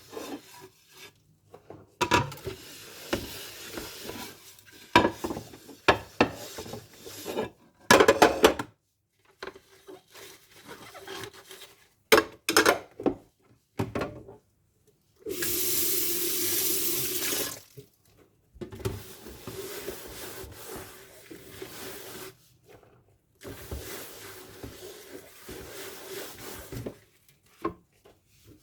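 Dishes being washed by hand at a kitchen sink: scattered clinks and knocks of dishes and cutlery, with short runs of tap water. The loudest part is the tap running steadily for about two and a half seconds in the middle.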